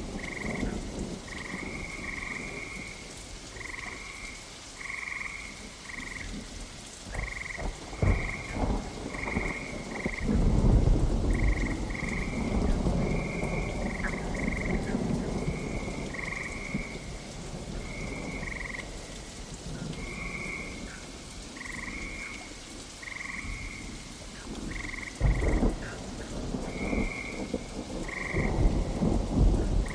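Steady rain with frogs calling in a chorus of short croaks, about one to two a second, and thunder rumbling. The loudest rumbles come about a third of the way in and again near the end.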